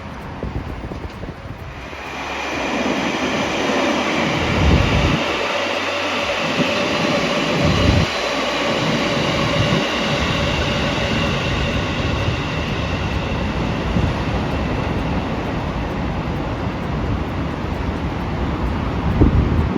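A train passing close by. It builds up about two seconds in and runs on with a steady whine, and a few heavy low thumps come from the wheels and running gear.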